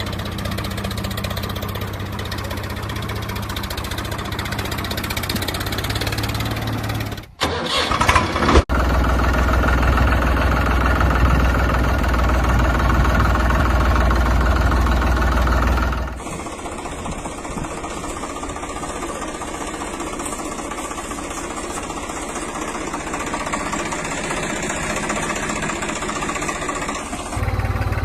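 A vehicle engine running steadily, made of several clips joined with abrupt cuts: louder after about nine seconds, quieter again from about sixteen seconds, and louder once more near the end.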